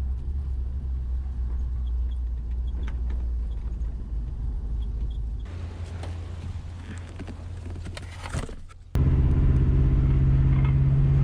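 1978 Ford F150 pickup's engine running, a steady low rumble; about nine seconds in it turns abruptly louder, with a strong steady droning tone.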